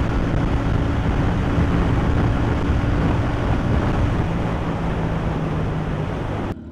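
Motorcycle riding at speed: a steady engine hum under loud wind rush. It cuts off suddenly near the end.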